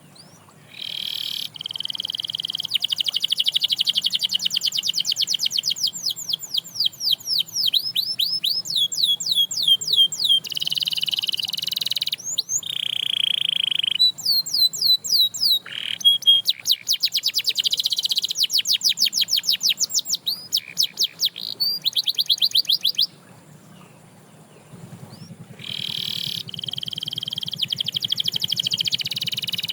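Canary singing: long phrases of rapid trills and rolls, each made of fast repeated high sweeping notes, broken by a pause of about two seconds late on before the song starts again.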